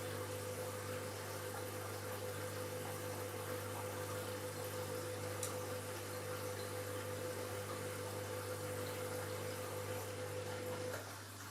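Washing machine running a steady whine over rushing water, as a pump or water flow works during the cycle; the whine cuts off suddenly near the end, leaving a low hum.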